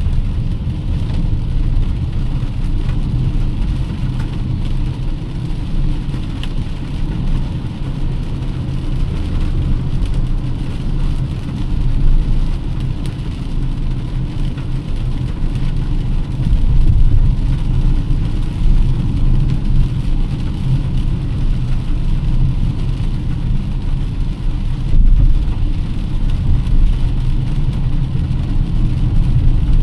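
A car being driven: a steady low rumble of engine and road noise, swelling louder a few times.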